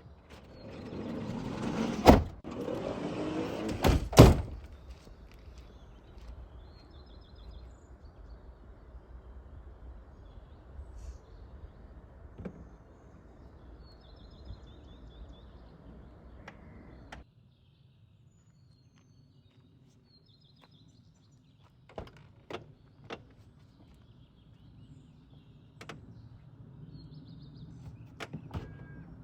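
A sliding door rolls along its track and shuts with a heavy thunk about two seconds in, followed by a second loud knock about two seconds later. Faint bird chirps come afterwards.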